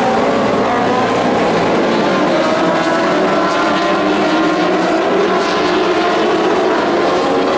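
Several dwarf race cars running together on track, their engine notes overlapping and drifting slightly up and down in pitch.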